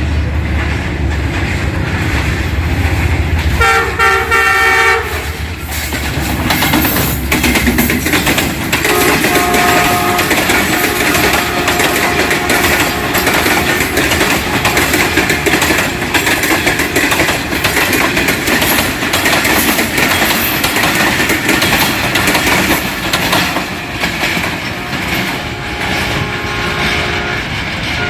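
ZCU-30 diesel-electric locomotive heading a passenger express: its horn sounds one chord-like blast about four seconds in over the engine's rumble. Its coaches then roll past with a steady rattle and clatter of wheels over the rail joints.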